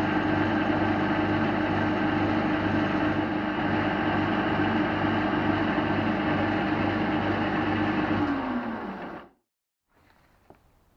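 Small metalworking lathe running steadily with a constant motor hum. Near the end it is switched off and winds down with falling pitch, then the sound cuts off abruptly, leaving a quiet room and a faint click.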